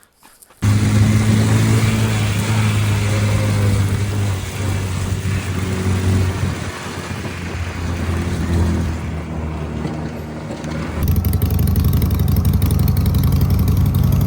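Motorcycle engine running at a steady pitch with slight rises and falls. About eleven seconds in the sound cuts abruptly to a louder, hissier mix of engine and noise.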